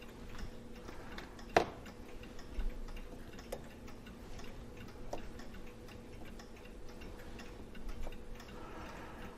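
Irregular sharp clicks and taps of small brass clock wheels and arbors being lifted out of a Hermle clock movement and set down, with the loudest click about one and a half seconds in.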